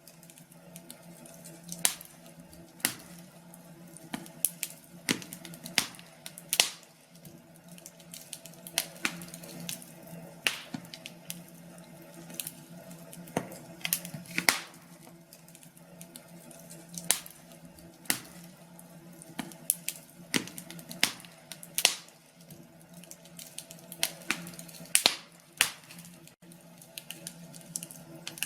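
Wood fire crackling, with irregular sharp pops several times a second over a faint steady low hum.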